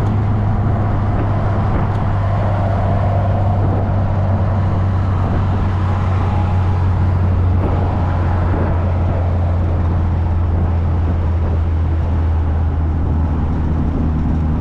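Classic car's engine droning steadily at road speed, heard from inside the car with tyre and wind noise. The drone drops a little in pitch over the last few seconds.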